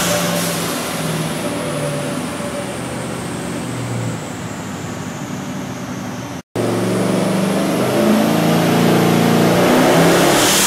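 Twin-turbo 4-litre engine of a Ford Capri running on E85 on a chassis dyno: it runs a little quieter with a high whine falling in pitch, cuts out completely for a moment past the middle, then comes back louder with the whine rising again.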